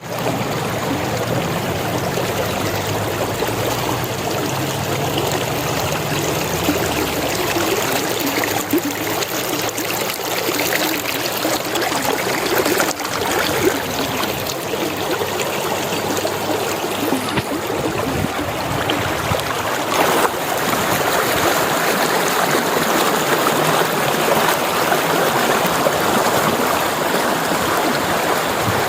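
Water of a stream running and trickling, a steady rushing.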